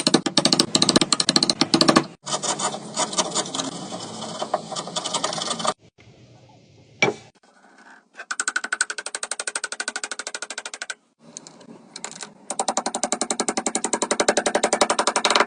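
A fast, rhythmic mechanical rattle of rapidly repeating strikes, in several short stretches that cut off abruptly one after another, with a quieter gap in the middle.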